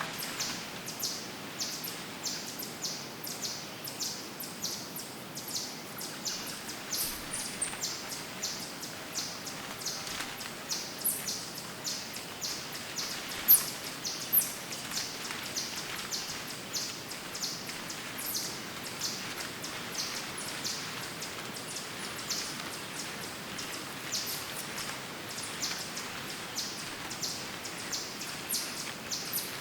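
Woodland birds chirping in quick, steady repeats of short high notes, with a few falling whistled calls, over a steady hiss of forest ambience. A single sharp snap sounds about halfway through.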